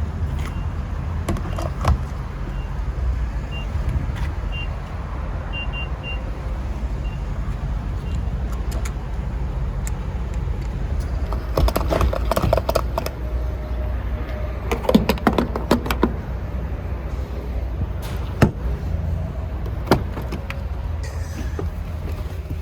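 Ford F-150 pickup running, heard from inside the cab as a steady low rumble, with scattered clicks and rattles about halfway through.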